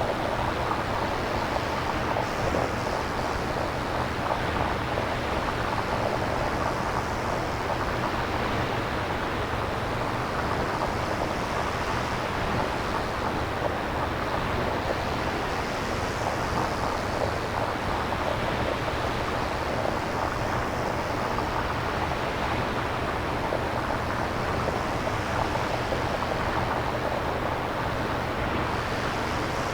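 Synthesized nature ambience made without recorded samples: a steady rushing noise like distant surf or wind, its upper part swelling gently every few seconds.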